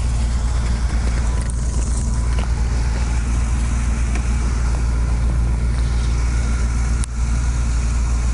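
A vehicle engine idling steadily with a low, even rumble, with a brief dip about seven seconds in.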